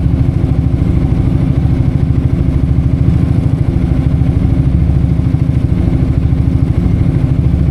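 Yamaha XMAX 250 scooter's single-cylinder four-stroke engine idling steadily through an aftermarket ProSpeed Scooter Series exhaust, a fast, even low exhaust pulse.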